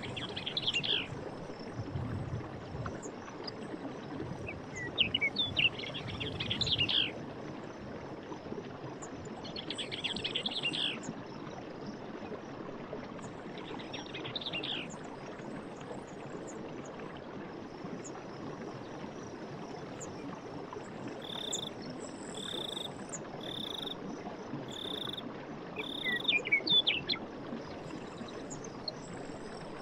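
Night forest ambience: short bursts of high chirping calls from frogs, insects or birds every few seconds, including a run of five evenly spaced high notes about two-thirds of the way through, over a steady low hiss.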